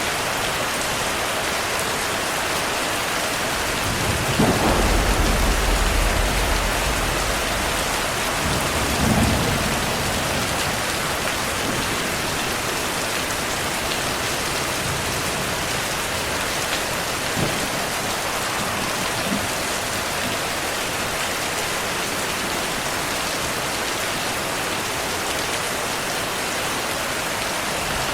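Heavy, steady rainfall. About four seconds in, a deep roll of thunder rumbles for several seconds, followed by a second, shorter rumble about nine seconds in.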